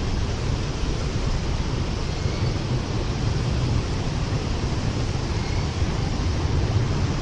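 Norfolk Southern train crossing the steel Portage Viaduct overhead, heard from beneath as a steady low rumble.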